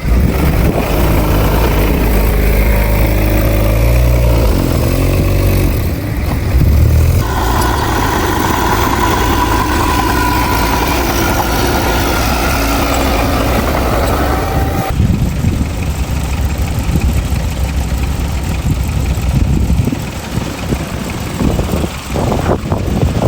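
Heavy diesel earthmoving machinery running continuously, its engine pitch shifting several times, with a higher whining tone added for several seconds in the middle.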